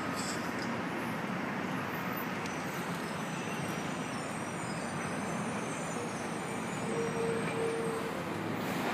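Steady rumble of vehicle noise, with a short faint tone a little past two-thirds of the way in.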